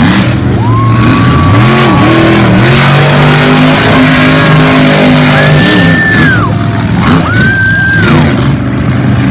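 Monster truck engine revving hard, its pitch rising and falling in repeated surges, with a high whine that climbs, holds and drops with the revs.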